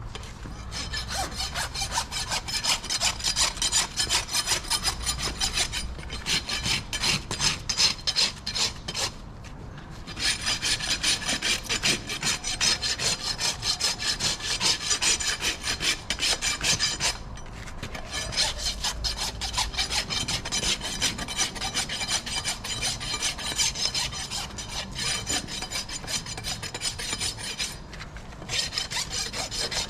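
Farrier's rasp filing a horse's hoof in fast, repeated scraping strokes, with a few brief pauses.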